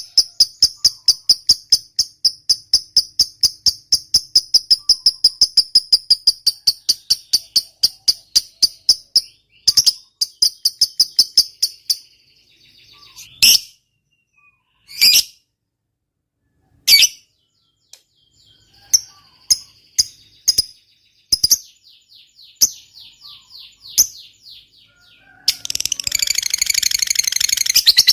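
Lovebird giving its long, rapid chattering trill (the 'ngekek'), a fast run of high, evenly repeated notes. About nine seconds in it breaks into a few separate sharp calls and scattered chirps, then the fast chatter starts again near the end.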